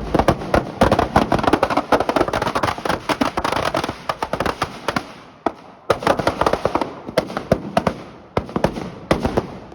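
A string of firecrackers going off in rapid, dense crackling pops, with a brief lull about five and a half seconds in and thinner popping near the end.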